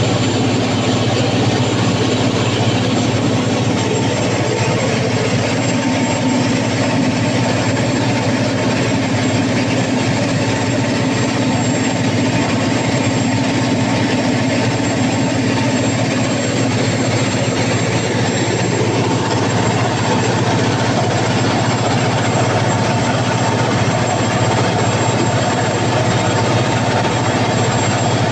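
Cummins KTA50 V16 turbocharged diesel generator engine running steadily and loud, a constant deep drone.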